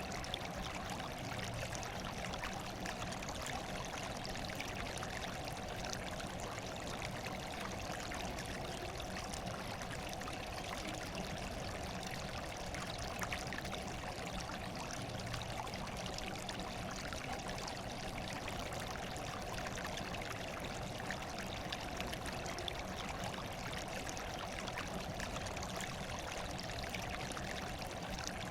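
Steady running water, like a small stream or trickling waterfall, flowing without a break.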